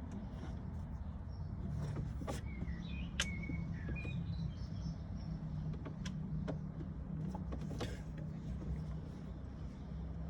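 Volkswagen car engine idling with a steady low hum, with scattered light clicks and ticks over it.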